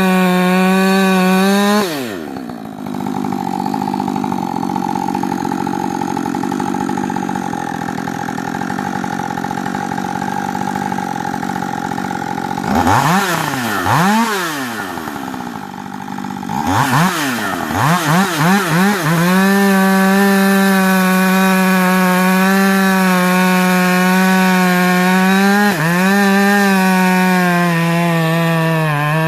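Rebuilt Husqvarna 562 two-stroke chainsaw run at full throttle, then bogging down into a cut through wood for about ten seconds. Around the middle it is revved up and down several times, then held at a steady high scream to the end, dipping briefly once.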